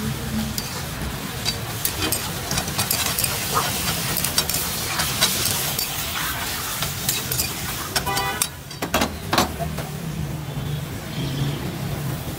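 Chicken and tomatoes sizzling in a hot karahi while a steel ladle stirs them, knocking and scraping against the iron pan many times. A steady low hum runs underneath.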